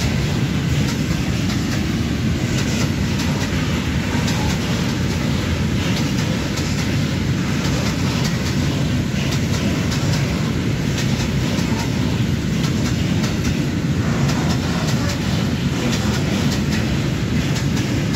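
Freight train of open-top wagons rolling past: a steady rumble of wheels on rails, with repeated sharp clicks.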